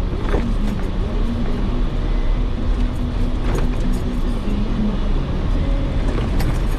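Jeep Wrangler driving off-road: a steady engine and drivetrain rumble, with a few sharp knocks about half a second in, partway through, and near the end.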